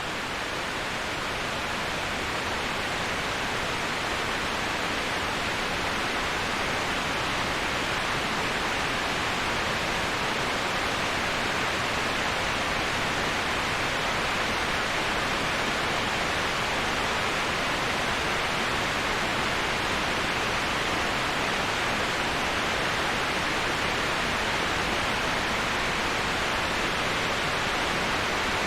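Waterfall: a steady, even rush of falling water, heard as a continuous hiss strongest in the upper middle range.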